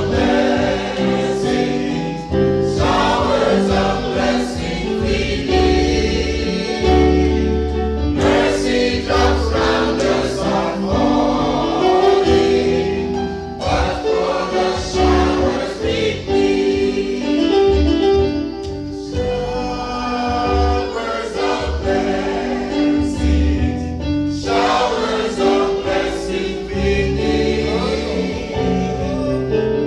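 Gospel choir singing a hymn with instrumental accompaniment and a steady bass line.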